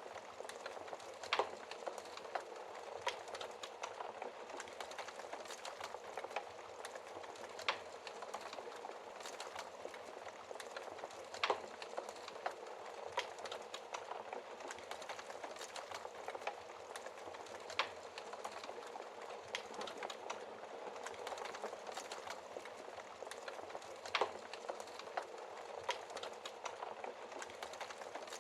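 Wood fire burning in a fireplace: continuous soft crackling with occasional sharp pops from the burning logs, the loudest about 11 and 24 seconds in.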